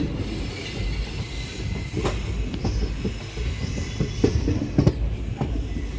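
Passenger train running: a steady low rumble with several sharp knocks of the wheels over rail joints.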